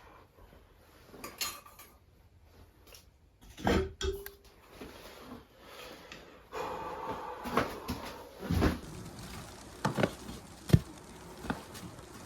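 Cookware being handled: a string of separate clinks and knocks of metal pots and utensils, one leaving a brief ringing note about four seconds in.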